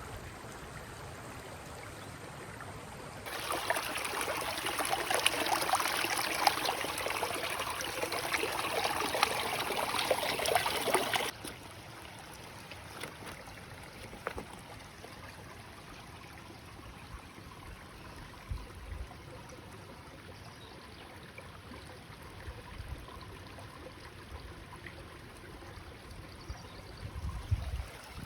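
Mountain stream flowing over rocks, running steadily. From about three seconds in to about eleven seconds in the water is much louder and nearer, starting and stopping suddenly, then it falls back to a softer, more distant flow.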